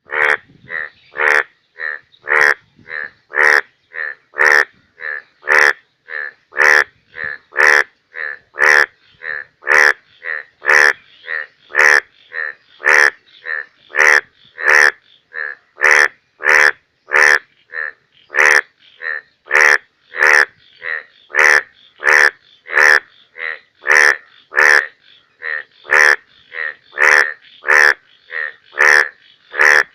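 Indian bullfrog calling: a long, steady series of loud, short croaks, a little under two a second, each starting with a sharp click.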